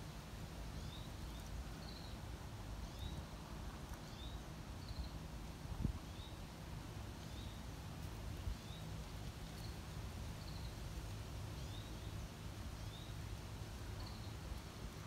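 Quiet outdoor ambience with a low steady rumble and a small bird chirping over and over, short high notes about once a second. There is a single brief thump about six seconds in.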